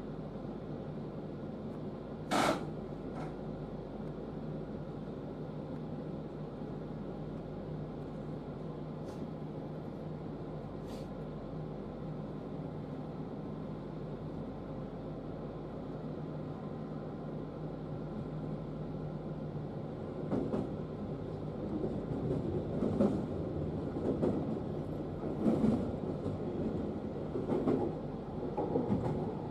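811 series electric train heard from inside at the front: a steady hum while it stands, with one sharp knock about two seconds in. It then gets under way, and from about two-thirds through the wheels set up a growing rumble with a run of knocks as the train crosses pointwork.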